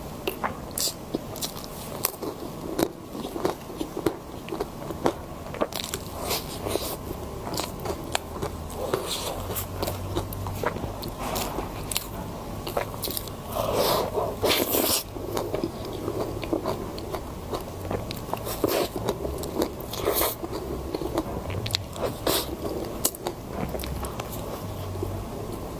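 Close-miked eating of crunchy food: a run of crisp bites and chewing crunches, with a louder flurry of crunching about halfway through.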